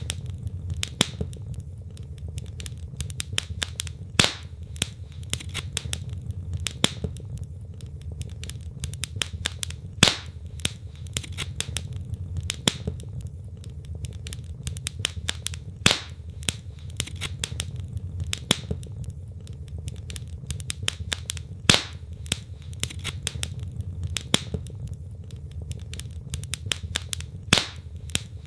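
Wood fire in a fireplace crackling, with constant small snaps and a louder pop every few seconds over a low steady rumble of the flames.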